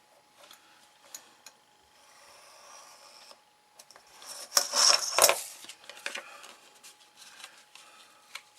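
Thin card being scraped and rubbed while it is scored and pressed flat, with light taps and clicks and one loud scrape lasting about a second, some four and a half seconds in.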